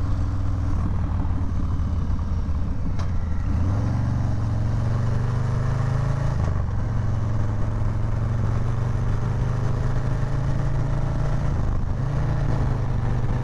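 Milwaukee-Eight 114 V-twin engine of a Harley-Davidson Low Rider S running under way, with wind rush. The engine note steps up about four seconds in and again near the end.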